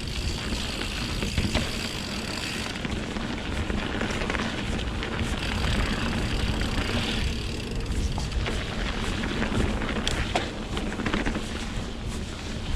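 Mountain bike being ridden on a dirt singletrack: wind buffeting the microphone over the rolling of the tyres, with the bike's rattles and a few sharp knocks over bumps.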